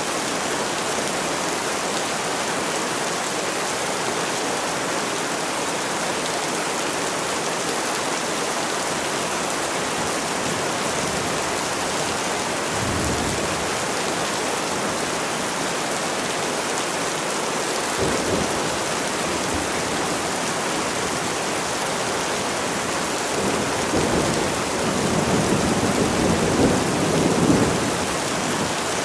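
Steady heavy rainfall with rolling thunder: a short low rumble about halfway through, another a few seconds later, and a longer, louder rumble near the end.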